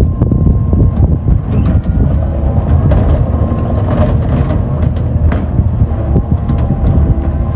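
Recycling garbage truck running with a steady low rumble, amid repeated metallic clanks and knocks and a faint high squeal.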